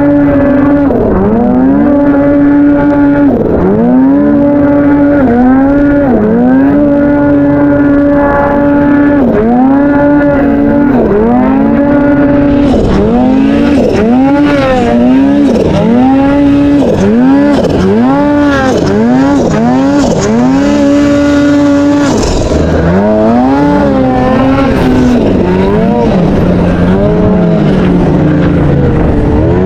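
Snowmobile engine held at high revs, its pitch repeatedly dipping and climbing back about once a second as the throttle is worked in deep snow. A hiss joins in through the middle part.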